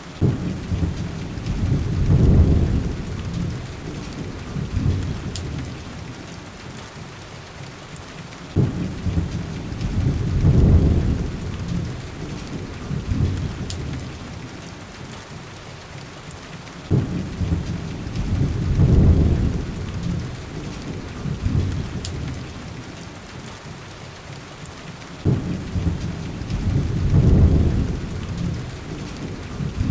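Heavy rain with thunder: four low rolling thunder rumbles about eight seconds apart, each opening with a sudden crack, swelling for a couple of seconds and then fading, over a steady hiss of rain.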